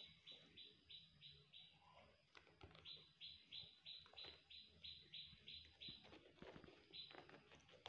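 Faint, high chirps repeating rapidly and evenly, about three a second, in long runs with short breaks, like a bird calling over and over. Soft knocks and rustles come in between.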